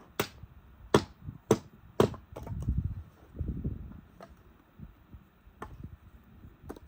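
Sharp knocks on wood: four hard strikes about half a second apart, a low rumbling shuffle, then a few fainter knocks near the end, as of firewood being chopped or handled.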